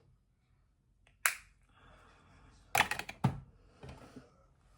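Sharp clicks and knocks of makeup items being handled: a single click a little over a second in, then a quick cluster of clicks around three seconds, with faint rustling between.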